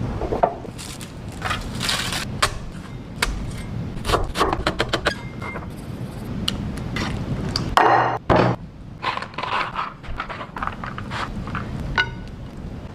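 Kitchen utensils and cookware knocking and clinking, with a louder, briefly ringing sound about eight seconds in.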